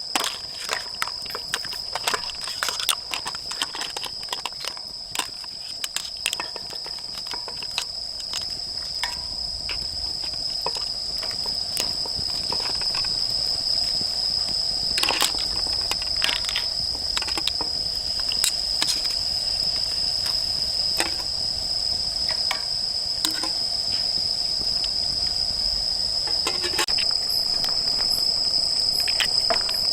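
Grass insects chirring in a steady high tone, with firewood crackling and popping in a fire pit, the pops thickest in the first few seconds.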